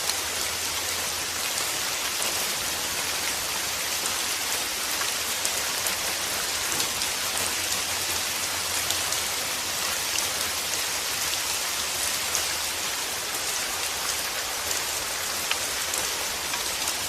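Steady white-noise track: an even, rain-like hiss, brightest in the upper range, with faint scattered ticks.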